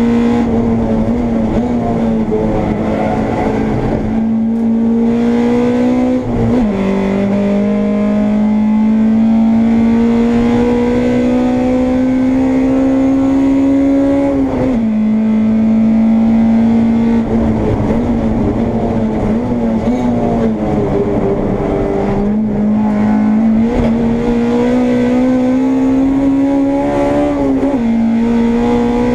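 Honda Integra race car's engine at high revs under hard acceleration, its pitch climbing slowly through each gear. Sharp drops in pitch at upshifts come about six and a half and fourteen and a half seconds in. Past the middle the revs sag and waver, then climb again.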